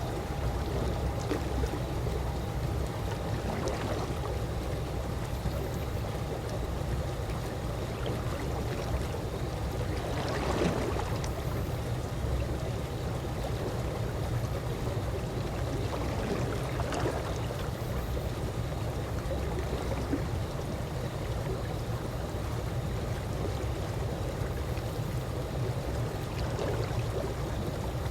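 Calm swimming-pool water lapping and gurgling in a steady wash, with a few brief louder sloshes, the strongest about ten seconds in.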